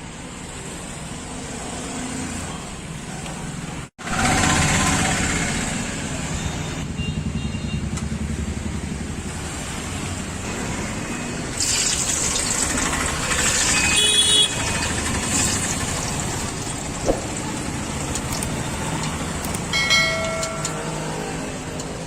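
Roadside street noise from passing traffic, steady and mixed with general bustle, with a brief break about four seconds in after which it is louder.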